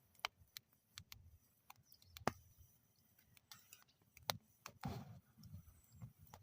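Wood fire burning in a metal fire bowl, crackling quietly with irregular sharp pops, the loudest about two seconds in.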